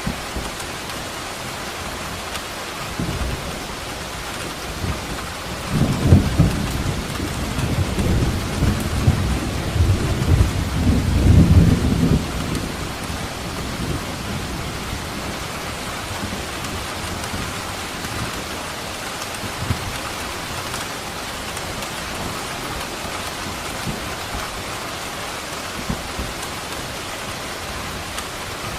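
Steady heavy rain with a roll of thunder that rumbles up a few seconds in, is loudest for about six seconds, then dies away under the rain.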